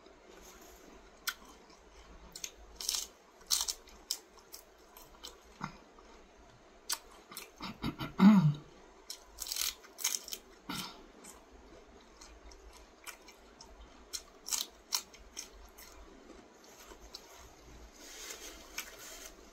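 Close-up chewing and crunching of lettuce and food, with scattered wet mouth clicks. About eight seconds in comes a brief low falling hum, the loudest sound, and near the end a paper napkin rustles as it is rubbed over the fingers.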